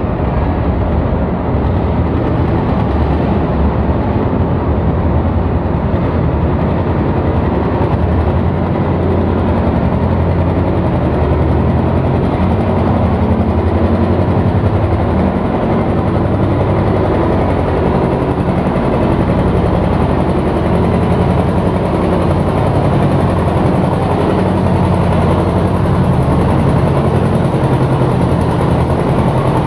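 Heavy tractor engine running loud and steady, a continuous low drone that wavers slightly in pitch.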